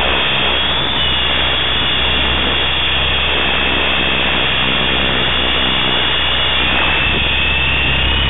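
T-Rex 500 electric RC helicopter running in flight: a steady motor and rotor whine over a low hum, its high tones shifting slightly in pitch now and then.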